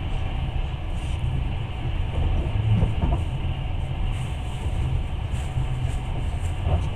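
Long-distance passenger train carriage running along the track, heard from inside as a steady low rumble.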